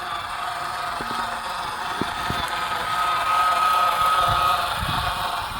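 G scale model train running on garden track: a steady electric-motor whine with scattered clicks from the wheels on the rails, getting louder about three seconds in and fading again shortly before the end.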